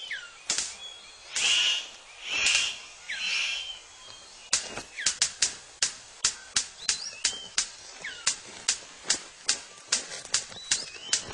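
Male superb bird of paradise courting a female: three short noisy calls, then from about four seconds in a quick run of sharp clicks, about three a second, as he displays. Faint thin whistled bird calls sound in the background.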